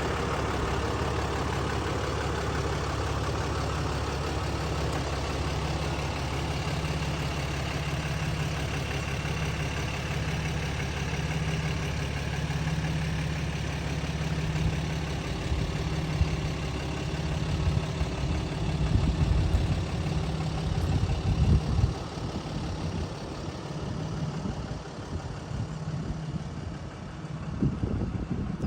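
Engine of a 2018 Ram 3500 heavy-duty pickup idling steadily. From about 15 s in, uneven low rumbles and bumps come and go over the idle.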